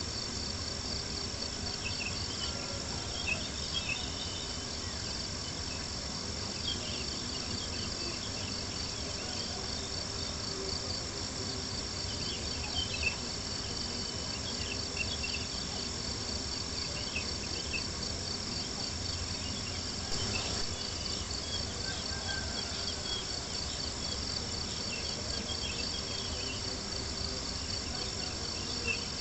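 Crickets chirping in a steady, finely pulsed trill, over a low crackle of a campfire with a few small pops.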